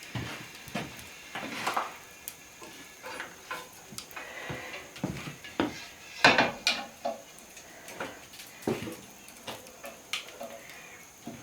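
Irregular clinks and knocks of kitchen utensils and cookware being handled, some with a short ring, the loudest cluster a little past the middle.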